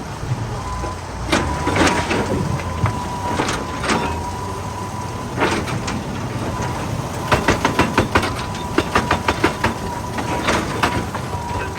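Excavator working rock: the diesel engine runs with a steady low rumble and a thin steady whine, under sharp irregular knocks and clatter of rock, with a fast run of knocks about seven seconds in.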